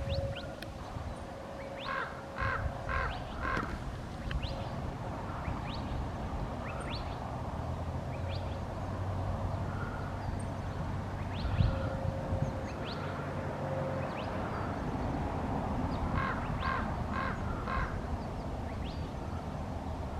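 A bird calling in two runs of four short calls, about two a second, a couple of seconds in and again near the end, with faint high chirps of small birds in between.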